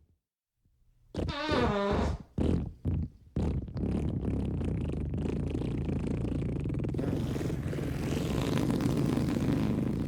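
Fart sound effects: after about a second of silence, a squeaky, wobbling fart and a few short puffs, then one long, low, rumbling fart that runs on to the end.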